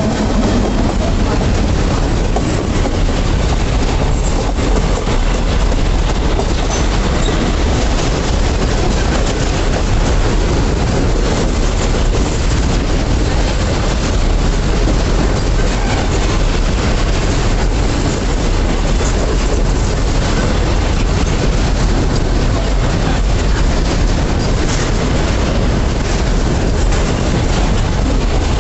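Freight train wagons rolling past, a steady loud rumble of steel wheels on the rails.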